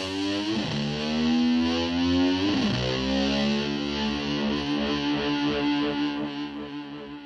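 Distorted electric guitar sliding up and down in pitch twice, then holding a final note that fades away near the end.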